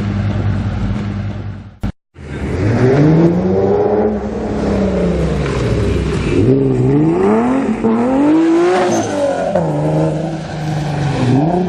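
Tuner car engine idling steadily. After a brief break about two seconds in, the engine is revved up and down several times, with the pitch climbing and dropping in a series of throttle blips.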